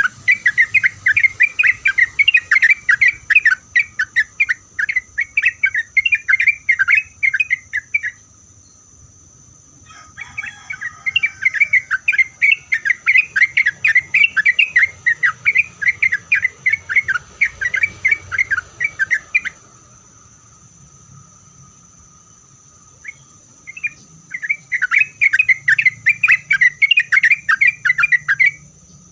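Yellow-vented bulbul (trucuk) singing in three long bouts of rapid, chattering notes, with short pauses between them, over a steady high-pitched hiss.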